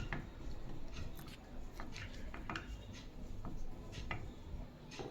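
Faint, scattered clicks and light scraping of hand work on an electric fan's motor housing as it is reassembled, with its screws being tightened and its parts handled.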